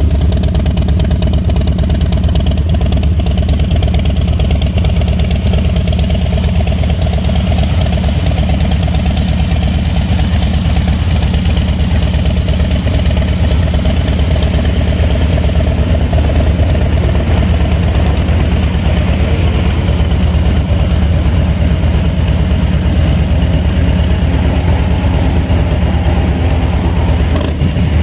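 2022 Harley-Davidson Low Rider S's Milwaukee-Eight 117 V-twin idling steadily through an aftermarket Pitbull Cycle exhaust. The idle is loud and even, with the weight of the sound low in pitch.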